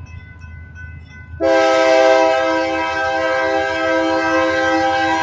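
A locomotive air horn sounds a loud, steady multi-note chord that starts abruptly about a second and a half in and holds to the end, over the low rumble of the slow-moving train.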